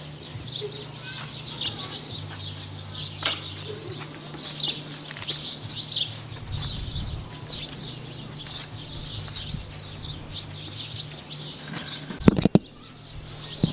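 Many small birds chirping continually in short, irregular calls over a steady low hum. About twelve seconds in, a quick cluster of sharp knocks stands out as the loudest sound.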